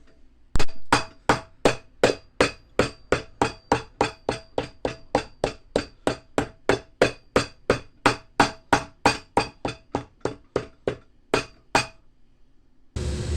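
A shoemaker's hammer strikes steadily, about three blows a second, each with a short metallic ring, as a replacement heel is hammered on. There is a brief pause before the last two blows. A steady machine noise starts just before the end.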